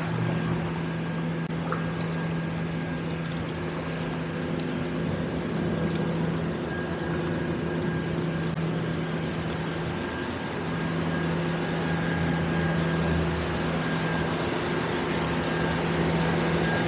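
Steady mechanical hum: a constant low tone with a fainter high whine over a background hiss. The low tone drops out briefly about ten seconds in.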